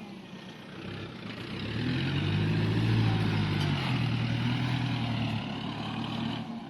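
Diesel dump-truck engine running, growing louder about a second and a half in, holding steady, then easing off near the end.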